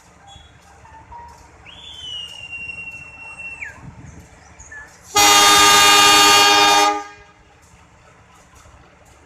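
A CC 201 diesel-electric locomotive's horn sounds one loud blast of about a second and a half, a little past the middle. Before it there is a fainter single high tone that rises, holds for about two seconds and drops away.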